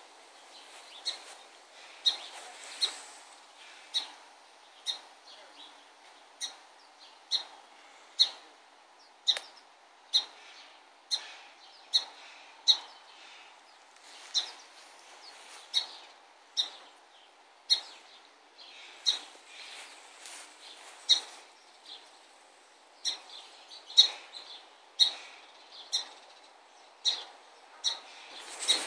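A bird calling with a short, sharp chirp, repeated about once a second over faint outdoor background noise.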